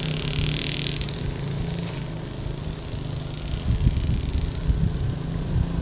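Motorcycle engine running steadily, with a few low irregular thumps about halfway through.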